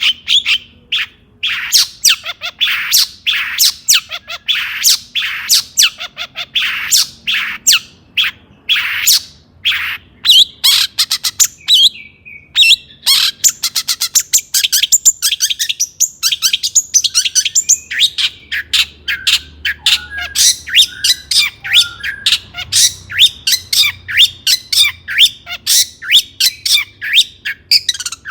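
Long-tailed shrike singing an agitated run of short, harsh, scratchy notes, several a second, with a brief pause about twelve seconds in and the notes coming faster after it.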